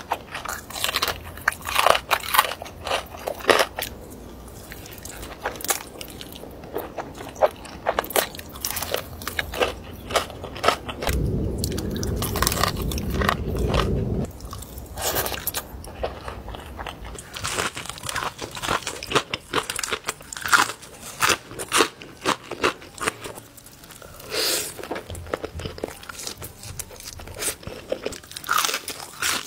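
Close-miked crunching bites and chewing of crispy breaded fried chicken tenders, in many sharp crunches. A steady low noise lasts about three seconds in the middle.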